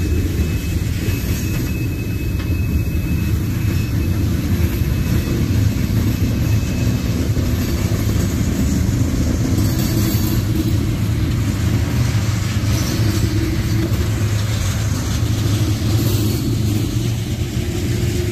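Freight cars of a manifest train, tank cars and covered hoppers, rolling past: a steady low rumble of steel wheels on the rails.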